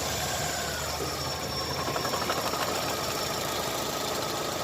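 Chevrolet Optra four-cylinder petrol engine idling steadily just after starting, with a misfire: cylinders 2 and 3 are working weakly, which the mechanic traces to low current from the ignition coil.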